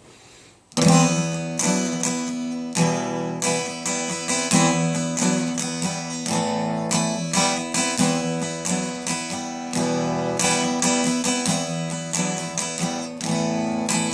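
Acoustic guitar strumming chords in a steady rhythm, starting abruptly about a second in after a faint hiss.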